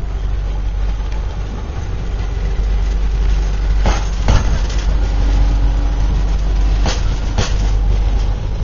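Modern diesel multiple unit rolling slowly past, with a steady low engine rumble. Two pairs of sharp clacks come about halfway and again near the end, as the wheels of a bogie cross a rail joint.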